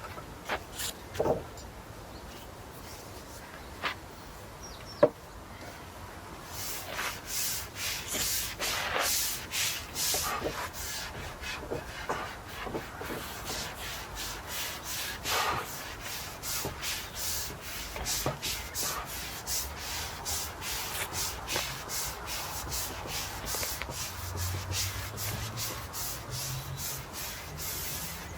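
A brush stroking oil onto European larch boards: rapid, repeated brushing strokes on the wood that begin about six seconds in, after a few light clicks and knocks.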